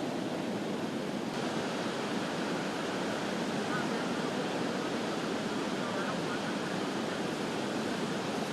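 Steady rushing of a creek in flash flood, fast, high floodwater.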